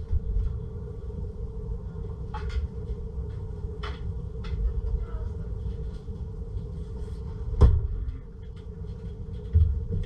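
A few short knocks and clinks of a utensil against a soup pot, the loudest near eight seconds in, over a steady low rumble and hum.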